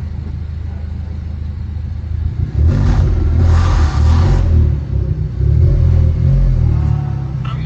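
Car engine running in an enclosed hall, revving up and growing much louder about two and a half seconds in, with a brief rushing noise, then running on loud as the car drives off.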